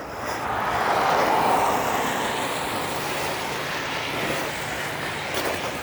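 A car driving past on the street, its tyre and engine noise swelling to a peak about a second and a half in, then fading. A low steady hum sets in about halfway through.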